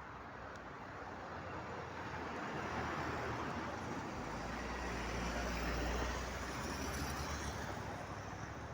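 Jet engines of a Wizz Air Airbus A320-family airliner on its landing approach, a rushing roar that swells over a few seconds, peaks with a deep rumble and a faint high whine about two-thirds of the way in, then begins to fade.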